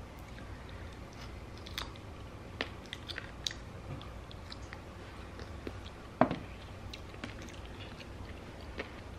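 Chewing and biting on a chicken wing, heard as scattered small clicks and crunches, with one louder knock about six seconds in.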